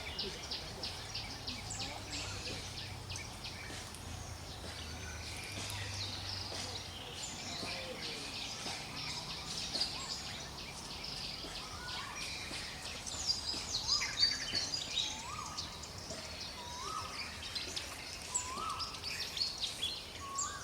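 Forest ambience full of birdsong: many birds chirping and trilling at once. In the second half, one bird repeats a short whistled note about every second and a half.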